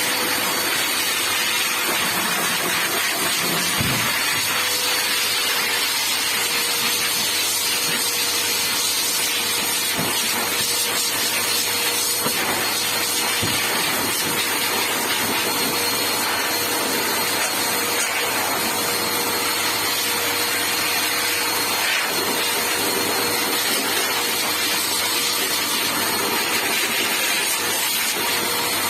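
Electric blower, such as a pet grooming dryer, running steadily: a constant rush of air over a faint motor whine. A few faint knocks sound through it.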